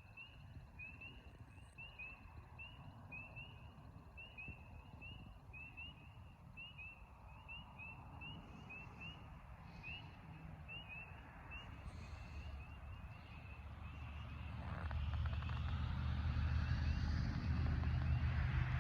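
A night chorus of spring peepers: short rising peeps, several a second, overlapping without a break. From about three-quarters of the way in, a low rumble swells up and drowns them out.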